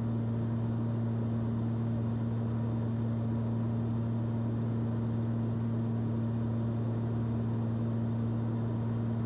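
Steady drone of a Cessna 340's twin piston engines heard in the cabin during a descent: an even low hum that does not change.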